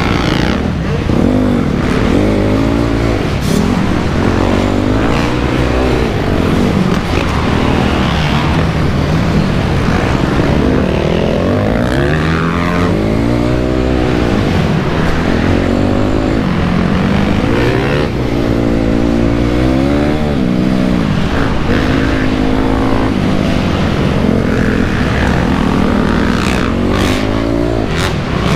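2008 Honda CRF250R's four-stroke single-cylinder engine revving up and falling back over and over as the dirt bike rides a motocross track, with a few sharp knocks near the end.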